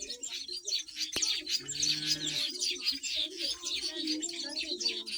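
A colony of nesting weaver birds chattering, with many quick high chirps and trills overlapping without pause, and a lower steady call running underneath.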